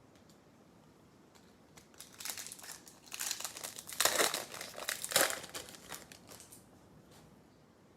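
Foil wrapper of a trading-card pack crinkling as it is handled and opened. It starts about two seconds in and is loudest near the middle.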